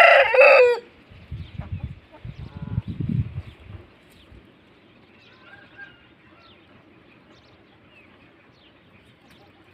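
Aseel rooster crowing, the loud end of a crow cutting off under a second in. Then a few low thumps for a couple of seconds, and faint short bird calls over a quiet background.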